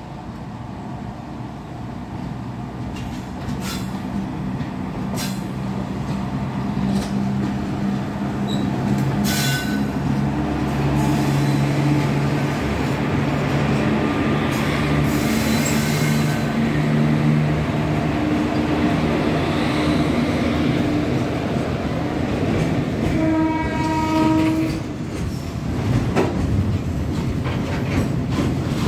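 A goods train hauled by twin WAG-5 electric locomotives approaches and passes, growing louder over the first ten seconds. The locomotives make a steady low hum, and the wagons clatter and clank over the rail joints and points as the train crosses from the loop line to the main line. A short horn blast sounds about two-thirds of the way through.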